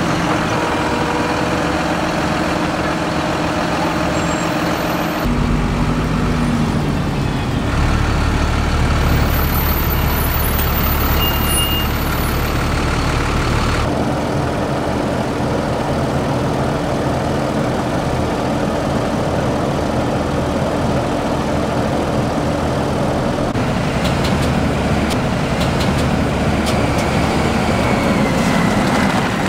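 Diesel engines of heavy farm tractors and silage machinery running steadily, in several short clips cut together, so the engine tone changes abruptly a few times.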